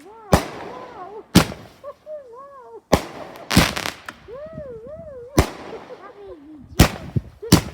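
Fireworks going off: about seven sharp bangs at irregular intervals. Between the bangs a wavering tone rises and falls in pitch.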